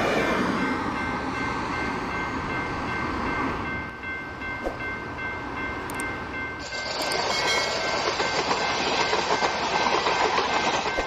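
A train running past, a steady rush of wheels on rails. It grows louder and brighter about seven seconds in. A few faint steady tones ring above it.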